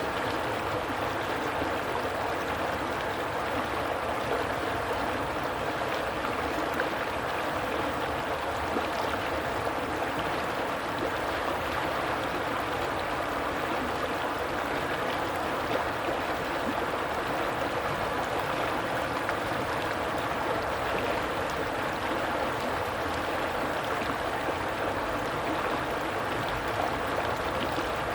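Flowing stream water running steadily over rocks, an even rushing with a light gurgle.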